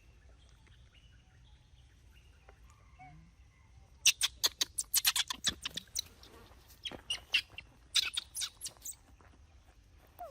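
Bird chattering: two quick runs of short, sharp, high-pitched chirps, the first about four seconds in and the second a second or so later.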